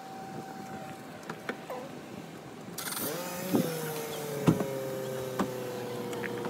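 Car park sound: a vehicle engine running, its steady tone drifting slowly lower in pitch, with a few sharp knocks, the loudest about four and a half seconds in.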